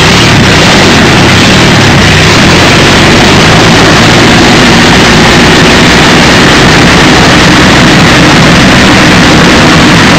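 The Napier-Bentley's 24-litre W12 Napier Lion aero engine running steadily through its short stub exhausts, very loud.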